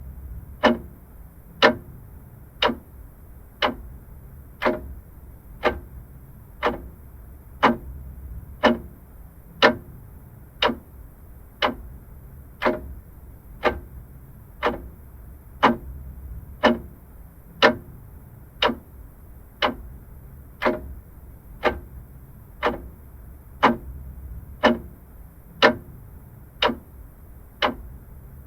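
Vintage clock ticking steadily, about one tick a second, over a faint low background hum.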